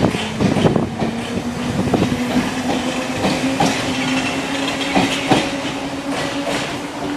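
London Underground C stock train running, with irregular clicks and knocks from the wheels over the rails and a steady motor hum that rises slightly in pitch.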